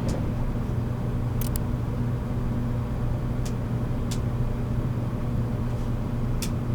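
Running noise inside a JR Kyushu 783 series limited express motor car (MoHa 783-13): a steady rumble of wheels on rail with a low, even motor hum as the train travels at speed, and a few short sharp clicks.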